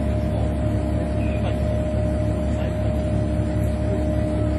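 Fishing boat's engine and deck machinery running steadily: a constant low rumble with a steady whine held on top.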